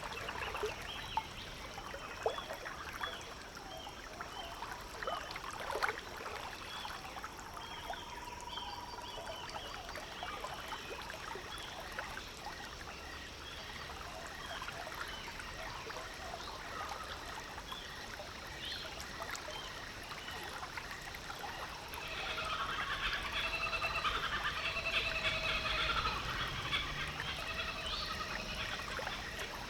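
Water trickling and lapping against a slowly cruising boat's hull, with many short wildlife chirps scattered through. A denser, louder burst of repeated chirping comes about three quarters of the way in.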